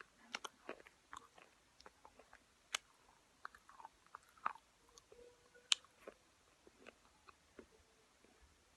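Slate chips being chewed: irregular sharp crunches and crackles as the brittle chips break between the teeth, with a few louder single snaps.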